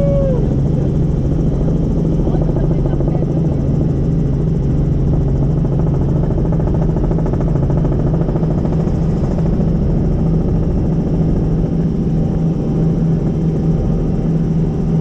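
Helicopter in flight: a steady, loud drone of rotor and engine.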